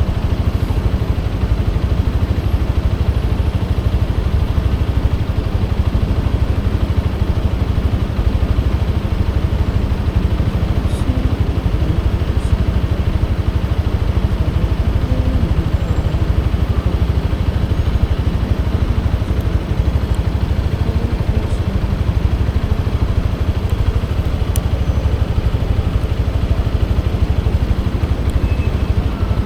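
Motorcycle engine running steadily, with a constant low rumble and road noise and no changes in pace.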